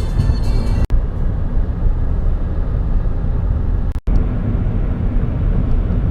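Steady low road rumble of a vehicle being driven, heard from inside. The sound drops out for an instant twice, about one second and about four seconds in.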